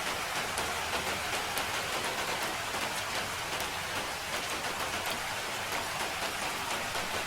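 Steady rain falling, a constant hiss with scattered sharper drops ticking through it.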